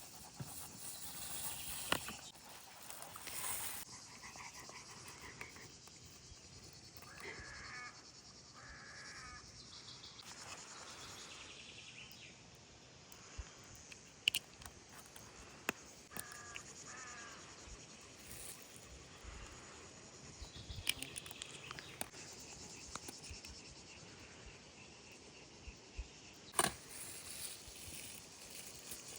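Quiet outdoor ambience with insects chirping steadily, a couple of brief chirping calls, and scattered light clicks and taps.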